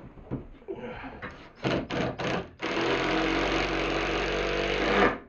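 Cordless impact driver driving a screw: three short trigger bursts, then a steady run of about two and a half seconds that stops just before the end.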